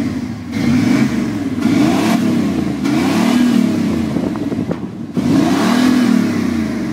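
Chevy 350 small-block V8 exhaust through a Flowmaster 40 Series muffler, revved repeatedly: several blips that rise and fall in pitch, with a short drop about five seconds in before one more rev.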